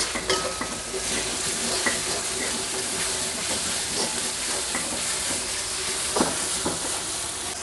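Ground spice paste (shallot, garlic, chilli, galangal, ginger, turmeric) sizzling steadily as it fries in oil in a metal wok, stirred with a metal spatula that scrapes the pan now and then.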